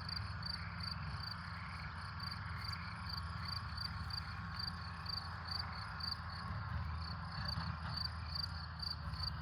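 Crickets chirping in a steady, even rhythm, about two to three chirps a second, over a low steady hum.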